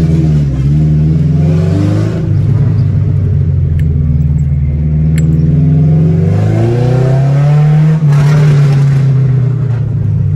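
Tofaş car's four-cylinder petrol engine and loud exhaust heard from inside the cabin as the car is driven hard through the gears: the engine note eases about two seconds in, climbs again, then drops sharply at a gear change about eight seconds in.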